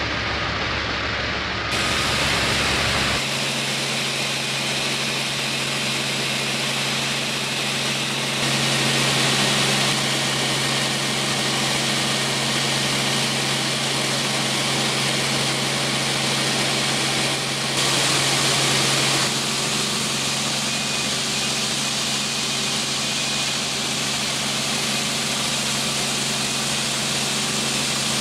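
Helicopter running with a steady engine and rotor hum and a loud hiss, with sudden changes in tone at several points.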